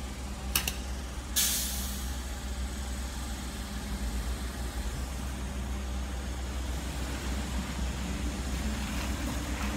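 Low steady rumble of an approaching train, with a short burst of air hiss about a second and a half in.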